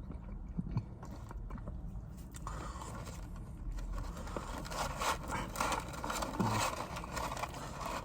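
Eating and food-handling sounds: chewing with small crunches, then from a few seconds in a denser scraping and rustling of the food packaging.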